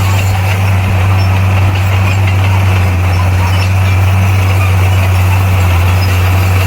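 Bulldozer's diesel engine running steadily with a deep, unchanging hum.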